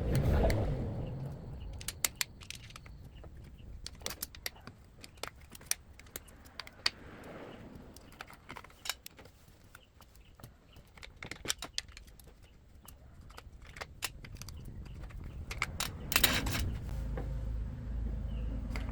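Small metal parts and hand tools clicking and clinking as a device is handled during repair work. About sixteen seconds in there is a short louder rattle, then a steady low hum starts.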